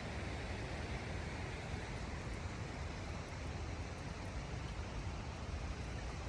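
Steady hiss with a low rumble underneath and no distinct event.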